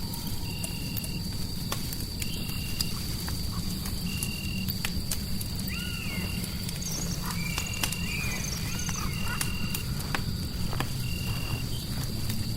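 Fireplace crackling with scattered sharp pops over a steady low rumble of white noise, mixed with night-creature sounds: a short high note repeating about once a second over a faint steady whine, and a few wavering, gliding calls near the middle.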